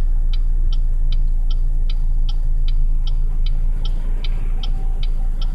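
A car's turn-signal indicator ticking steadily inside the cabin, about two and a half clicks a second, over the low steady rumble of the moving car.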